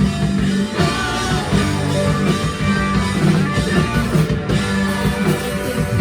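Four-piece rock band playing live: electric guitar over sustained bass notes, with drums hitting steadily.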